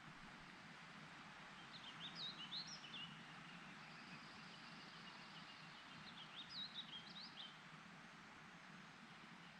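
A songbird singing two short phrases of quick, high, rising chirps, about two seconds in and again about six seconds in, over a faint steady outdoor rush of wind or moving water.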